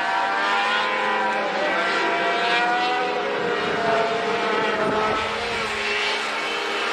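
Several race truck engines running together at speed on the track, their pitches shifting slightly up and down as the trucks pass.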